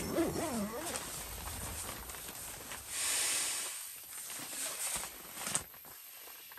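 A brief wavering, gliding voice-like sound, then rustling and a breathy hiss that swells about three seconds in.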